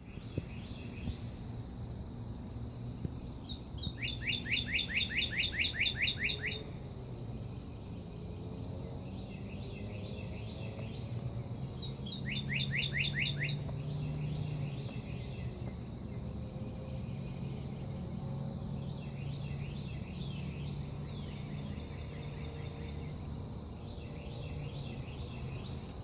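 Wild birds singing: scattered short chirps, and twice a fast trill of rapidly repeated notes, the first lasting about two and a half seconds, the second about a second and a half. A low steady hum runs underneath.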